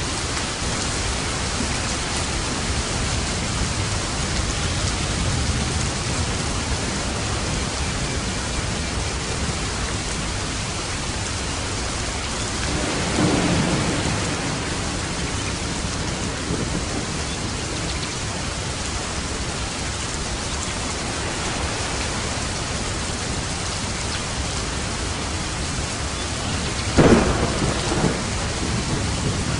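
Steady heavy rain with thunder: a low roll of thunder about halfway through, and a sharper, louder thunderclap near the end that rumbles off.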